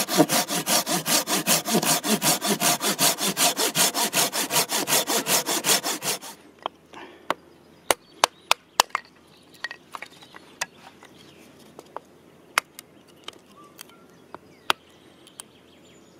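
Handsaw cutting through driftwood in fast, even strokes for about six seconds, then stopping abruptly. Scattered sharp clicks and snaps follow.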